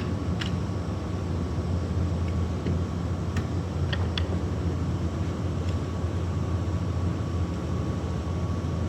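Steady low mechanical hum with a faint steady whine, typical of air-conditioning or ventilation machinery running. A few faint clicks of tools being handled, two close together about four seconds in.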